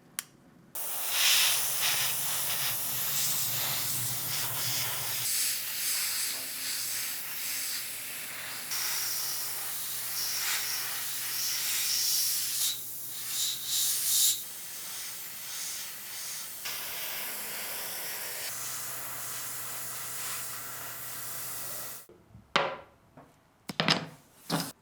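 A long pressurised spray hissing steadily with a faint low hum beneath it, stopping about three seconds before the end; then a few sharp clicks.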